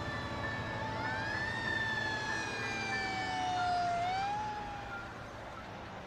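Slow gliding, siren-like tones, several overlapping, rising and falling irregularly and fading away near the end.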